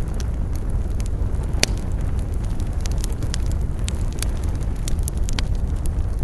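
Campfire burning with a steady low rumble and frequent sharp crackles and pops, one louder pop about one and a half seconds in.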